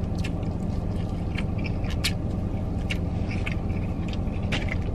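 Close-up eating sounds: scattered wet smacks and clicks of chewing fried seafood and licking fingers, over the steady low hum of an idling car heard from inside the cabin.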